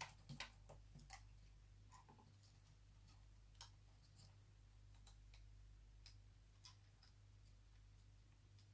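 Faint, scattered small clicks and taps, roughly one every second or so, over a low steady hum: laptop cables and their plastic connectors being handled and seated onto the motherboard.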